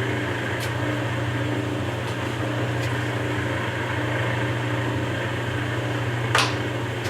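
Webb WL435 gap lathe running at low speed, a steady hum of its motor and geartrain. A single sharp clack near the end stands out above the hum.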